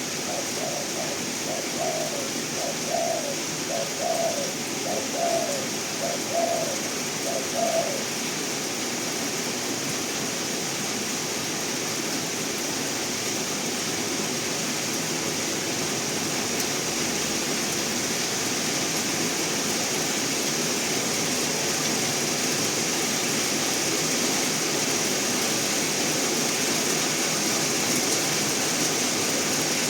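A dove coos in a quick series of short, even notes that stop about eight seconds in. Steady rain-like hiss runs behind it and swells slightly toward the end.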